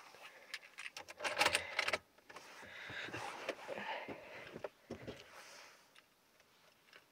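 Keys jangling and clicking, with rattles and rustling, as the car is readied before a cold start; the loudest clatter comes about a second in. The engine is not yet running.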